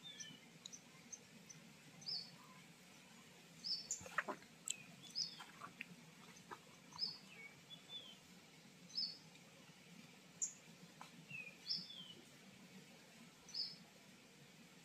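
Small birds chirping faintly: short high notes about once a second, some sliding downward, with a few faint clicks about four seconds in.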